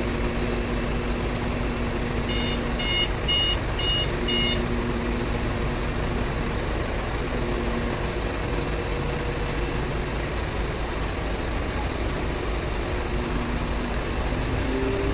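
Truck-mounted crane's diesel engine running steadily, its pitch shifting now and then, with a run of five short electronic warning beeps, about two a second, a few seconds in.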